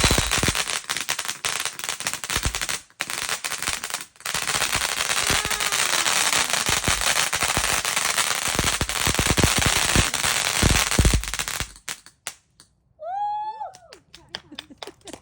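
Firework going off in a rapid, continuous stream of crackling pops and bangs for about twelve seconds, with two brief breaks near the start, then stopping suddenly.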